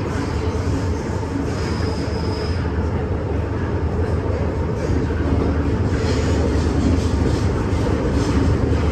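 MTR M-Train metro car running between stations, heard from inside the carriage: a steady loud rumble of wheels and motors, with a brief high-pitched squeal about two seconds in.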